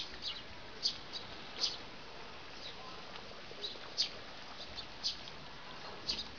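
Small birds chirping: short, high chirps scattered irregularly, about ten in all, over a steady faint background hiss.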